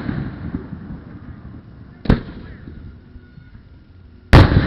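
Fireworks display shells bursting: two sharp booms about two seconds apart, the second near the end and louder. Each is followed by a long low rumble, and the rumble of an earlier burst is dying away at the start.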